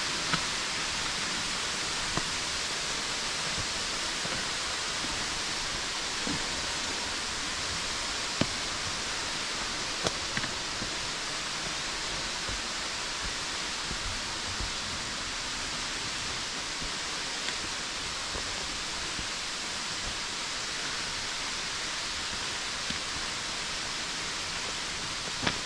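Small waterfall pouring into a limestone swallow hole: a steady, even rush of falling water, with a few brief clicks over it.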